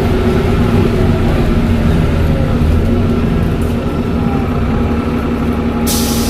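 Dennis Trident double-decker bus engine running at a steady pitch, with a steady whistling tone from the turbocharger over it. A short hiss comes in near the end.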